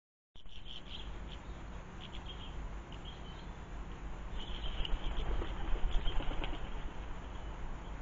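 Small garden birds chirping in short high calls, with wing flutters and a run of sharp clicks, loudest about five to six and a half seconds in, from a blue tit moving and pecking inside a hanging plastic globe seed feeder.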